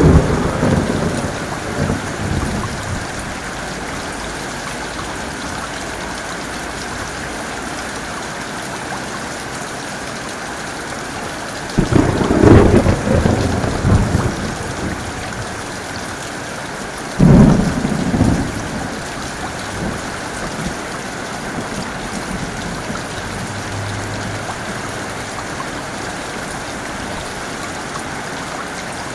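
Steady heavy rain with thunder. A rumble fades away over the first few seconds, then two sudden close thunderclaps come about five seconds apart, each rumbling briefly before the rain alone carries on.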